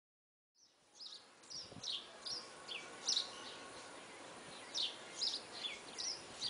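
Small birds chirping: short, high, falling notes, several a second in loose clusters, over a soft steady hiss. It begins from silence about a second in.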